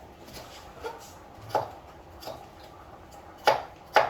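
A kitchen knife chopping onions on a cutting board: single knocks at an uneven pace, with two louder strokes near the end.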